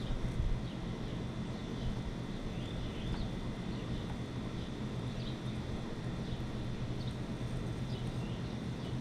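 Small birds chirping in short high notes, about one to two a second, over a steady low rumbling hum.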